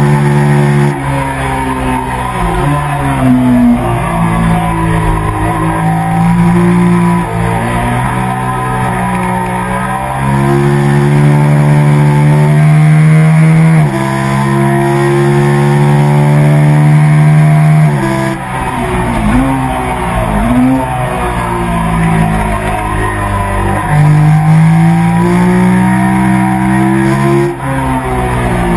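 Sport motorcycle engine at racing revs, pulling hard up through the gears with a brief dip at each upshift. Twice it winds down in quick steps with short throttle blips, downshifting under braking for a corner, then climbs again.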